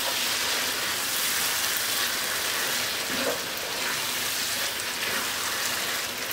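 Lamb pieces and yogurt frying in hot oil in a non-stick pan: a steady sizzle, stirred through with a spatula.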